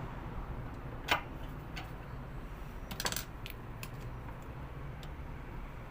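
Metal clicks and clinks of a wrench tightening the nut on a washing machine's spin dryer: one sharp click about a second in and a quick run of ticks about three seconds in.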